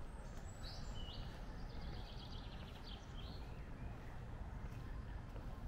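A small songbird singing a short phrase of high chirps and a fast trill, which stops about three and a half seconds in, over a steady low outdoor rumble.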